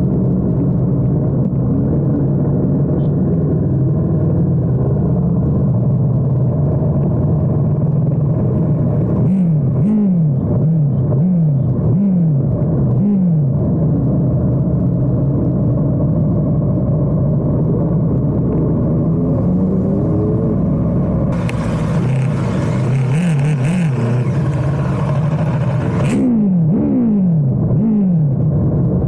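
Muffled motorcycle engines running, with a steady low drone broken by repeated quick revs that fall in pitch, in two clusters. A hiss comes in for about four seconds in the second half.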